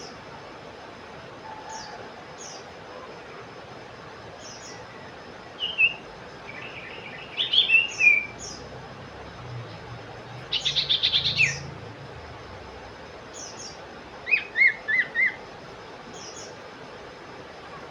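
Small songbirds calling: faint high chirps throughout, a loud cluster of short whistled notes about six to eight seconds in, a fast rattle of about eight notes a few seconds later, and four quick notes near the end, over a steady hiss.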